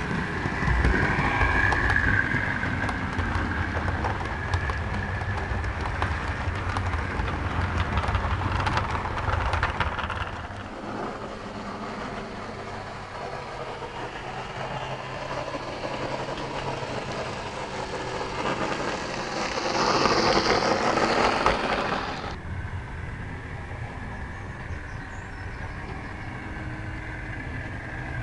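OO gauge model diesel trains running on the layout's track: motor whir and wheel noise with fine clicking over rail joints. Louder for the first ten seconds, with a brief louder passage about twenty seconds in that stops suddenly.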